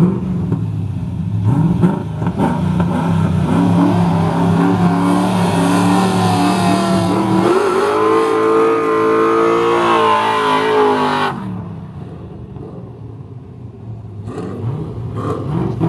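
A Corvette V8 held at steady revs on the starting line, then revved sharply higher and held there through a tire-smoking burnout. The sound cuts off abruptly about eleven seconds in, leaving quieter engine noise that builds again near the end.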